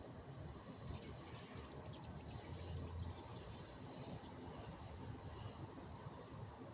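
A small bird chirping: a quick run of short, high chirps from about a second in until past four seconds, over faint background noise.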